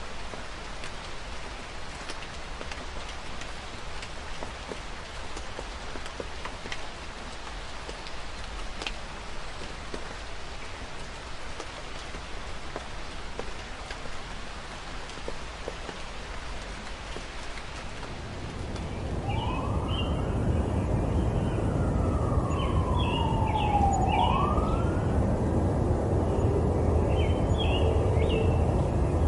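Rain falling steadily as a fine hiss. About 18 seconds in, city traffic comes up as a low rumble, and an emergency-vehicle siren wails through one slow rise-and-fall cycle while short high chirps sound over it.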